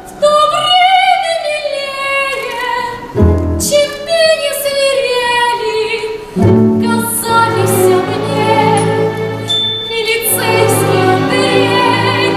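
A woman singing a song with a strong vibrato over instrumental accompaniment. The accompaniment fills out in the low end about six seconds in.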